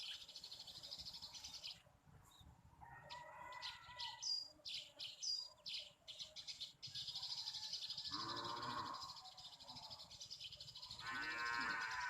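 Small birds chirping in short, sharp calls over a steady high drone of insects that stops for a few seconds. Two longer, lower calls come later, about eight and eleven seconds in.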